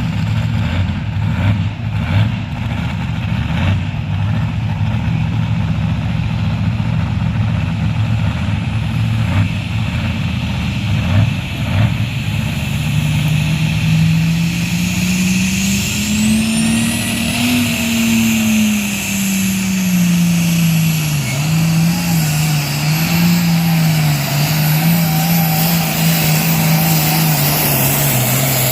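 International Harvester 1206 tractor's turbocharged six-cylinder diesel engine pulling under load. It runs steadily at first, then about halfway through its pitch climbs, peaks and falls back, wavering up and down as the engine labours with the sled.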